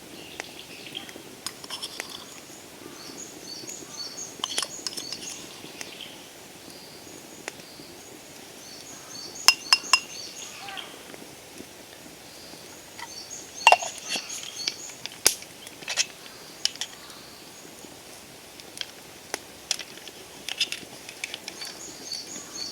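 Light clinks of a bamboo tea scoop against a ceramic tea bowl as powdered matcha is spooned in, a few sharp taps in two clusters about ten and fourteen seconds in. Repeated high chirping runs behind them.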